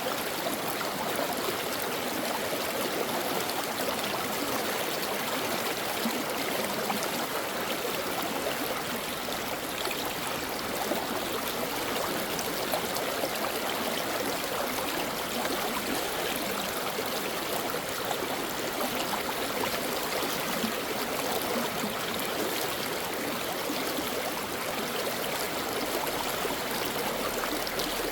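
Mountain stream running steadily over rocks, a continuous rushing and babbling of water with no breaks.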